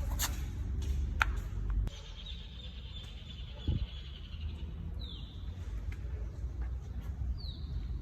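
Birds calling: a high trill about two seconds in and two short falling chirps later on. Under them, a low rumble stops about two seconds in, with a few sharp clicks near the start and a dull thump in the middle.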